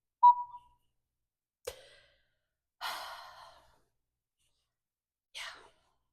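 A short ping right at the start, then a sharp click, a breathy sigh-like exhale about three seconds in, and another short breath near the end.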